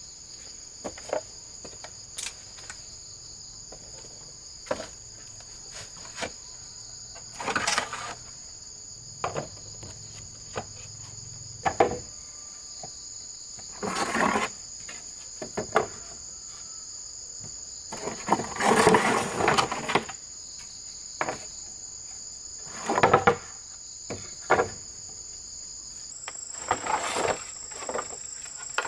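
Rainforest insects, crickets, drone steadily in two high continuous tones, one stepping higher near the end. Over them come irregular knocks and clatters, a cluster about two-thirds of the way through being the loudest.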